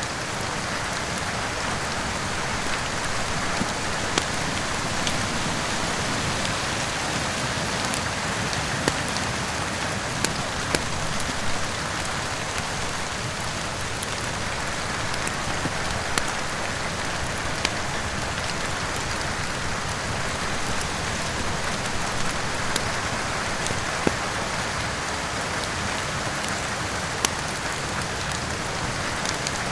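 Steady rain with the irregular sharp pops and crackles of a wood fire burning in a fireplace, about a dozen pops scattered through.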